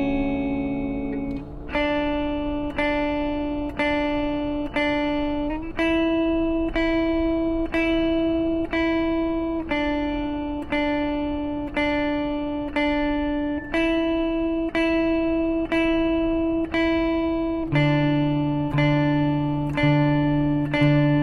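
Slow guitar music: a repeating picked pattern of ringing notes, about one a second, moving to a new chord every four seconds or so.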